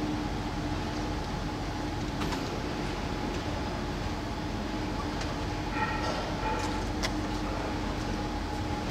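Sotetsu electric train at the station: a steady electrical hum with a constant low tone, a few faint clicks, and a brief cluster of higher tones about six seconds in.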